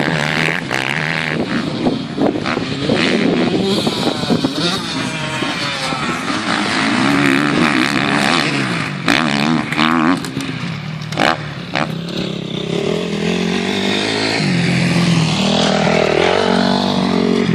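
Motocross bike engines revving up and down on a dirt track, the pitch rising and falling with the throttle, with a few sharp cracks near the middle.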